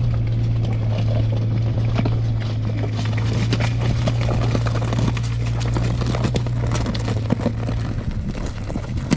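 An engine-driven machine running at a steady pitch, with many irregular knocks and rattles over it.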